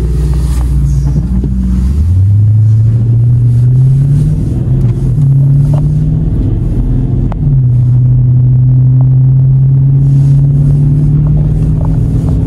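Dodge Challenger Scat Pack's 6.4-litre V8 pulling away through an automatic gearbox: engine pitch climbs, drops as it shifts up about four and a half seconds in and again about seven and a half seconds in, then holds a steady cruise.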